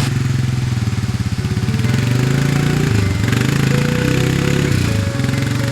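A vehicle engine running steadily under load, its pitch dipping and rising about 3 seconds in and again near the end.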